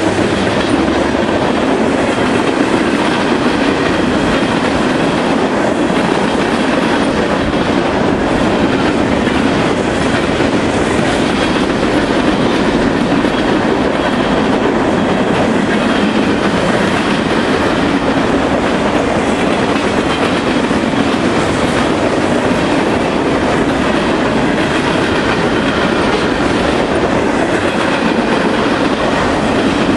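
Freight cars of a passing train rolling by close at hand: a loud, steady noise of steel wheels running on the rails, unbroken throughout.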